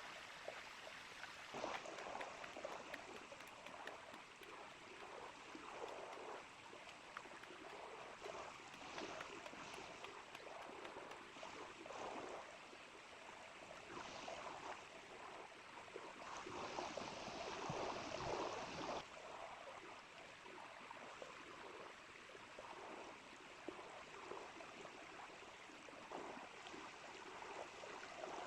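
Small river flowing steadily, with scattered light clicks and knocks over it and a louder stretch of a couple of seconds a little past the middle.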